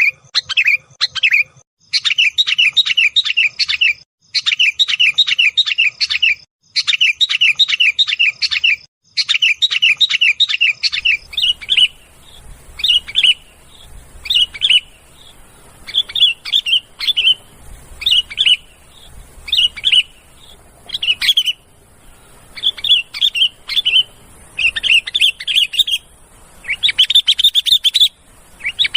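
Sooty-headed bulbul (kutilang) giving rapid, agitated chattering calls, a bird-lure recording. For the first half they come in bursts of about two seconds with short gaps. After that the phrases are shorter, about one a second, over a faint high hiss.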